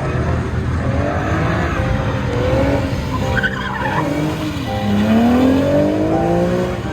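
Drift car engine revving hard as it drifts, its pitch climbing several times, with tyres skidding and squealing.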